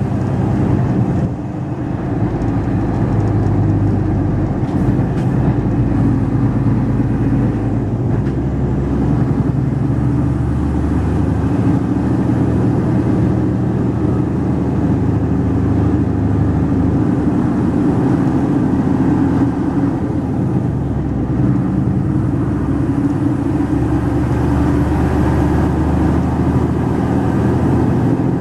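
Mercedes-Benz Actros 2546 truck engine running steadily on the road, with its low engine note changing a few times, about a second and a half in, near eight seconds and near twenty seconds.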